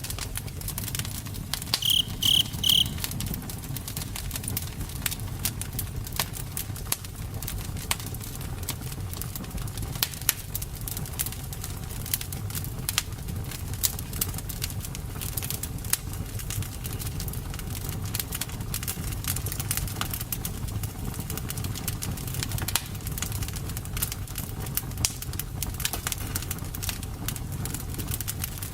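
Campfire burning: steady crackling and popping over a low rumble of flames. About two seconds in, three short high chirps stand out.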